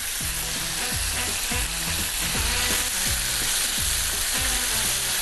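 Steady sizzling hiss of food frying, with background music's regular low beat underneath.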